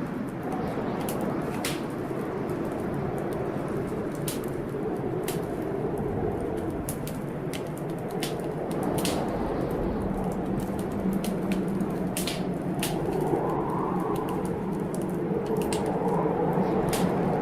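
Wood fire in a fireplace crackling, with scattered sharp pops. Beneath it runs a steady low storm rumble that swells in the second half.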